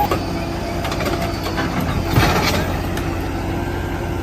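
Diesel engines of JCB 3DX backhoe loaders running steadily while lifting an overturned tractor, with a single knock about two seconds in.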